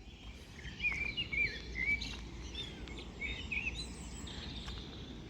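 Small birds chirping in short, quick up-and-down notes for about three seconds, over a low steady background rumble.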